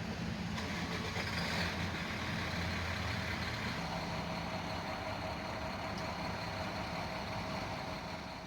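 A vehicle engine running steadily, with a constant whine over the low engine note.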